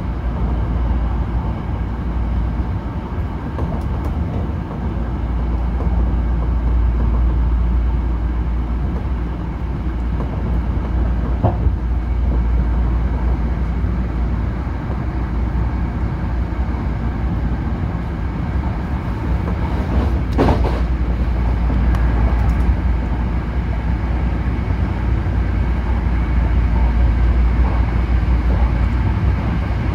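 Hankyu Railway limited express electric train running at speed, heard from inside the passenger car: a steady low rumble of wheels on rails. A brief sharper sound comes about eleven seconds in, and a stronger one about twenty seconds in.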